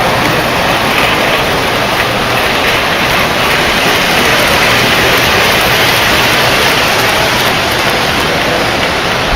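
Several O-gauge model trains running on the layout's loops: a steady rolling rumble of wheels on three-rail track with no breaks.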